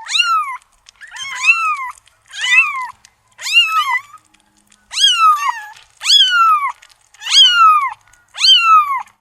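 A kitten meowing eight times, about once a second, each meow high-pitched and rising then falling in pitch.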